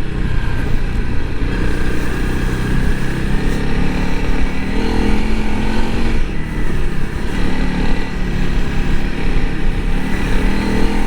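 Honda CRF300L Rally's single-cylinder engine running while riding a soft sand road, its note rising and falling several times, over a dense low rumble.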